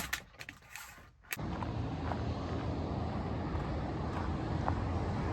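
Steady highway traffic noise from passing cars. It starts abruptly about a second and a half in, after a few faint clicks.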